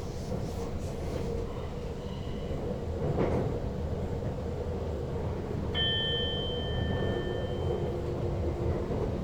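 Electric Sprinter Lighttrain (SLT) multiple unit running on the rails, heard as a steady rumble from the driver's cab with a constant hum. About six seconds in, a high ringing tone starts suddenly and holds for about two seconds.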